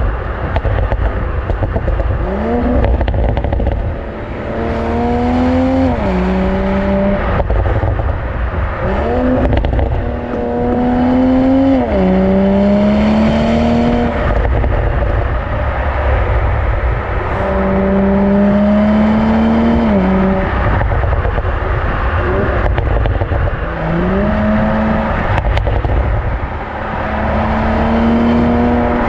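BMW Z4 M40i's B58 3-litre twin-turbo straight-six accelerating through the gears, its note climbing and then dropping sharply at each upshift, several times over, with a few sharp cracks in between. A heavy low rumble of wind buffeting on the microphone runs underneath.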